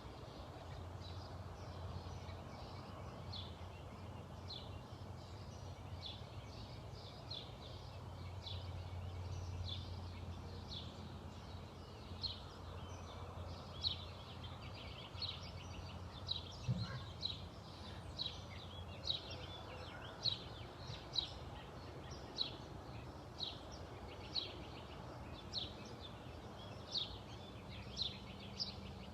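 A bird calling a long run of short, sharp high chirps, about one and a half a second, louder in the second half. A steady low hum lies beneath.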